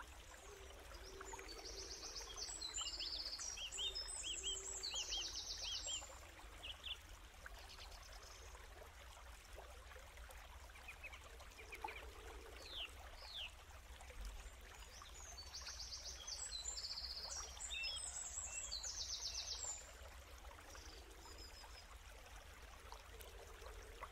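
Birds chirping and trilling over a faint steady hiss, with a dense stretch of song about two seconds in and the same pattern again about sixteen seconds in.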